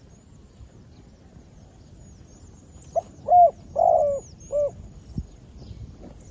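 Decoy dove cooing one short phrase of four low coos about three seconds in. Faint high chirps of small birds run underneath.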